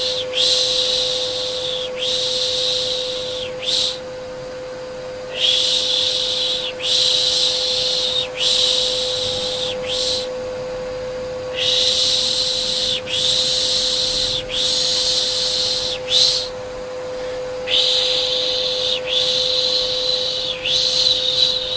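Soothing 'shh' shushing for a baby, repeated in runs of three or four shushes of about a second and a half each, with short pauses between runs. Under it runs a steady, even vacuum-cleaner hum.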